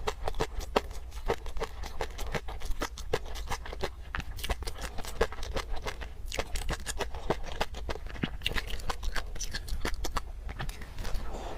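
Close-miked eating sounds: quick, irregular wet clicks and smacks of chewing, several a second, from a mouth eating peanut sauce with garlic.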